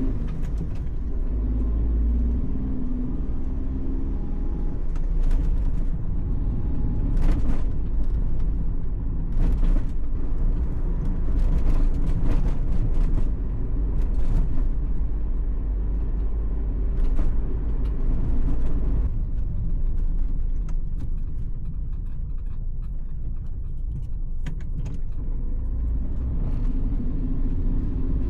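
Vehicle driving: a steady low engine and road rumble, with scattered light clicks and knocks.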